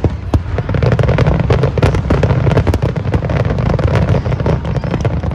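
Fireworks going off: a dense, unbroken run of many sharp bangs and crackles over a low rumble.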